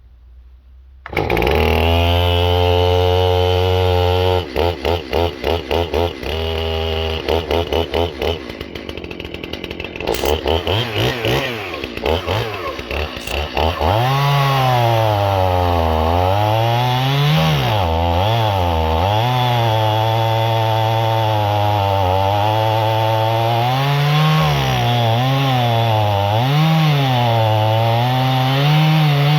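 Two-stroke chainsaw coming on about a second in, running steadily, then stuttering and revving for several seconds. From about halfway it runs at high throttle, its pitch repeatedly sagging and recovering as it bogs down and picks up under load while cutting through a dead ash log.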